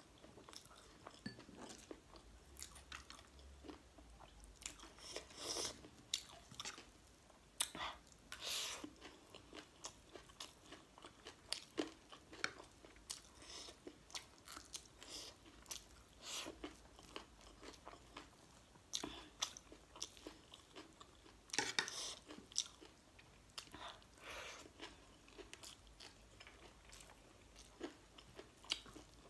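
Close-up chewing and crunching of a mouthful of spicy wet chatpate, with irregular crisp crunches every second or so.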